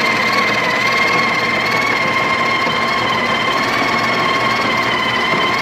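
The built-in burr grinder of a Breville Barista Express espresso machine grinding coffee beans into the portafilter: a loud, steady motor whine.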